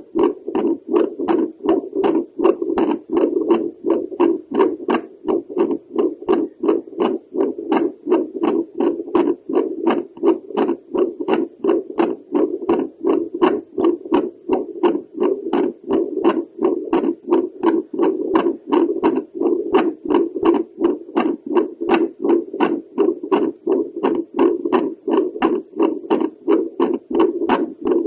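Home Doppler probe on a woman's chest picking up her heartbeat over the pulmonary valve: a steady, even train of pulsing whooshes over a continuous hum.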